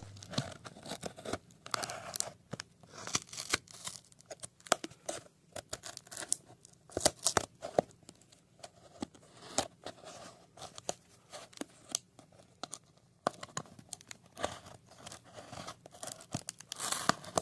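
Parcel packaging being torn open, with irregular rips and crinkles that come in quick bursts and pause briefly about two-thirds of the way through.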